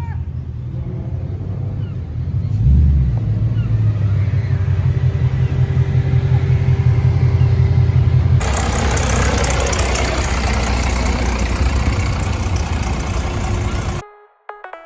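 A car engine running with a deep, low rumble that grows louder about two and a half seconds in. From about eight seconds a loud rushing noise joins it, and everything cuts off abruptly near the end.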